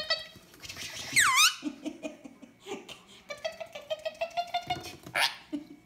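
Indian ringneck parrot vocalising: a loud, sharply falling squawk about a second in, then a run of pitched chattering, with small clicks in between.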